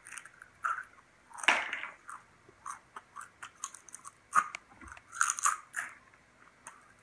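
Crunchy bites and chewing on a skewered centipede: a string of irregular crisp crunches, the loudest about a second and a half in and again between four and five and a half seconds.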